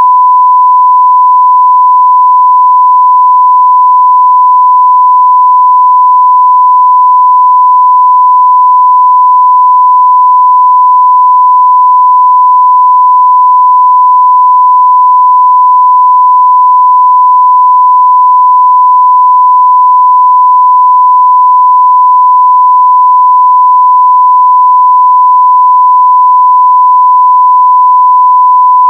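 Continuous 1 kHz sine-wave test tone at full-scale level (0 dB): one steady pure high-pitched tone that does not change.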